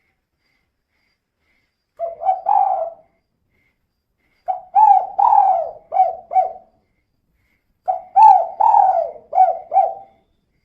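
Female spotted dove (tekukur) cooing in three phrases. The first is short, two notes; the other two are longer runs of four or five quick coos each.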